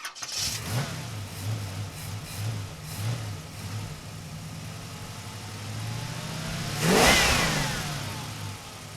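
Car engines running, one rising and falling in revs early on, then a car passing close about seven seconds in, its sound peaking and dropping in pitch as it goes by.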